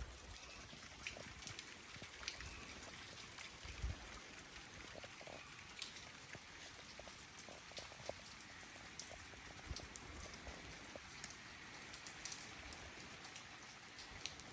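Light rain falling, a faint steady hiss with scattered drops ticking.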